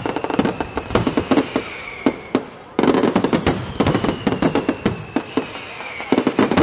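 Fireworks display: rapid bangs and crackling from bursting aerial shells, with a sudden flurry of louder bangs about three seconds in. A whistle falling slowly in pitch runs through the bangs twice.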